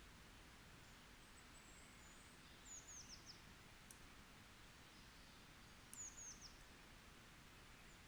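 Faint, high-pitched songbird phrases, each a quick run of three or four falling notes, heard twice, over a low steady background hiss.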